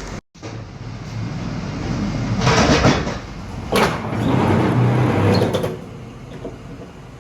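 Box truck's engine running with a low hum, with two stretches of louder noise over it, about two and four seconds in.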